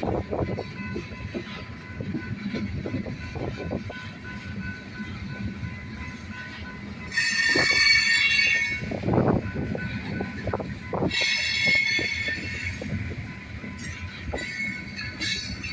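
Train passing close by: a steady rumble with the clatter of wheels over the rails. High-pitched wheel squeal rings out twice, about halfway and three-quarters through, with a short third squeal near the end.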